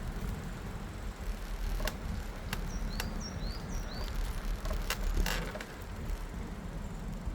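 Low wind rumble on the microphone with a few scattered clicks. Around the middle, a small bird gives four or five quick high chirps.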